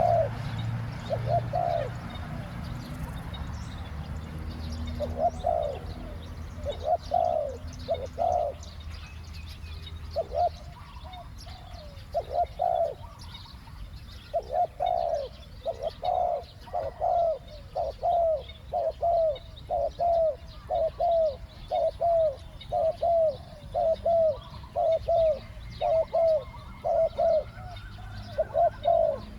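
Spotted doves cooing: short, low, hooked coo notes, scattered at first, then in a steady run of about one and a half a second from about halfway through. Faint chirps of small birds sound above them.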